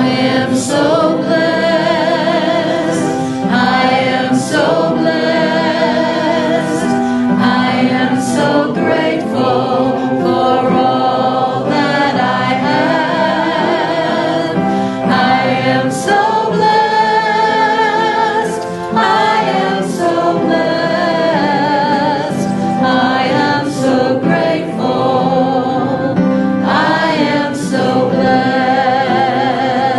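Congregation and choir singing a gospel-style worship song together, their voices sustained and wavering with vibrato over musical accompaniment.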